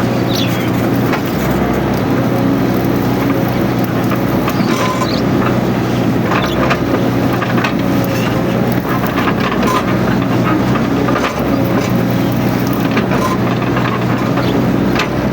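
Mini excavator's diesel engine running steadily under working load, with scattered knocks and clatter from the machine at work.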